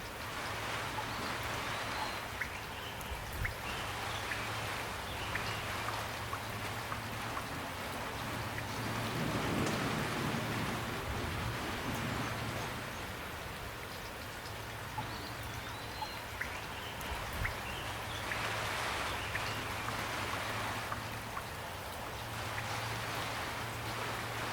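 Steady rain falling, with individual drops pattering. It grows louder and fuller for a couple of seconds near the middle.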